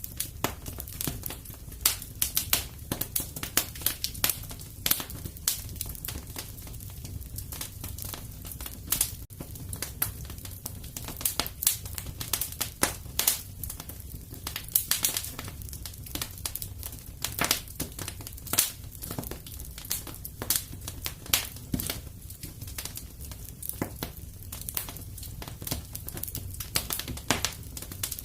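Fireplace fire crackling, with irregular sharp pops several times a second over a steady low rumble.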